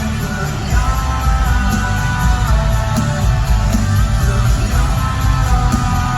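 Live rock band playing loudly: sustained electric guitar notes over heavy bass and drums.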